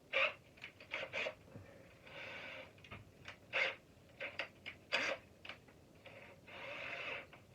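Irregular sharp clicks and knocks of a screwdriver and loose screws against a plastic shop vacuum housing as its star screws are taken out. Two short hissing sounds come about two seconds in and near the end.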